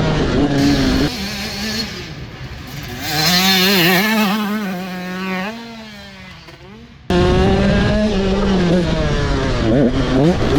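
Two-stroke 85 cc super mini dirt bike running a motocross lap, its engine revving up and down through the gears. The sound fades away for a few seconds, then jumps back suddenly about seven seconds in with the bike loud and close.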